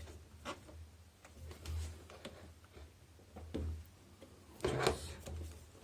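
Scattered light clicks and knocks of plastic washing-machine parts being handled, with a louder clatter about five seconds in, as a hose stopper is pressed, lifted and lowered into place.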